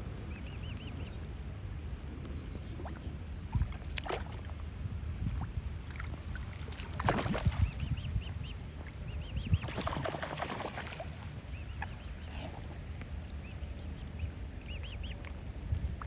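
Short, high peeping bird calls in small runs of two or three, over a steady low rumble. Several brief bursts of water splashing come in between, the loudest about 7 and 10 seconds in.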